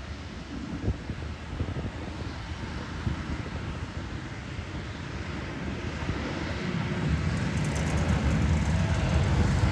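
Snowstorm wind buffeting the microphone, a low rumbling rush that builds louder over the last few seconds.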